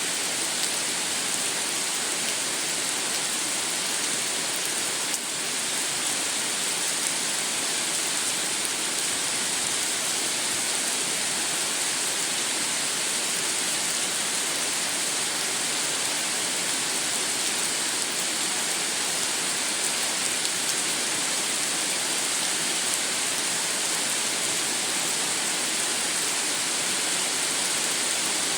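Steady rain falling, a continuous even hiss without a break.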